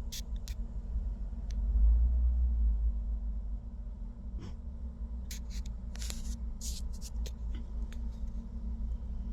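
Steady low rumble that swells briefly about two seconds in, with a scatter of sharp clicks and knocks in the second half.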